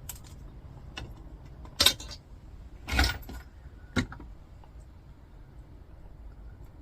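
Small copper windings from a transformer being handled and set on a weighing scale: a few separate metallic clinks and rattles, the loudest about two and three seconds in.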